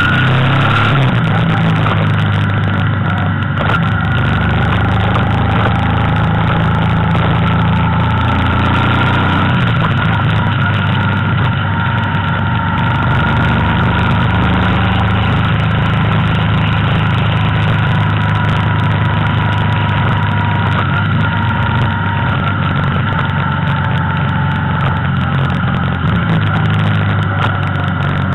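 Motorcycle engine running steadily at cruising speed, heard from on board the moving bike, with a steady whine and wind and road noise over it.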